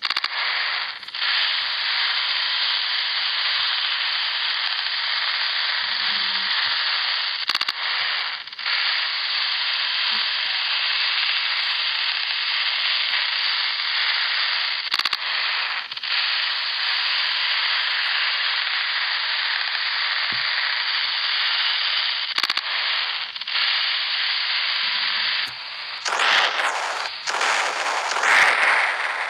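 Loud, steady hiss-like noise that starts abruptly. In the last few seconds it turns into a rougher, more uneven crackling noise.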